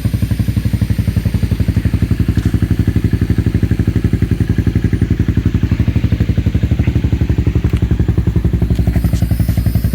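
Yamaha Morphous scooter with a swapped-in 400 engine idling through a Yoshimura RS3 muffler: a steady, even exhaust putter of about ten pulses a second.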